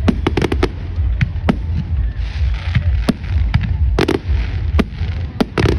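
Fireworks going off: a quick run of sharp bangs and cracks at first, then scattered single cracks and close pairs, over a steady low rumble.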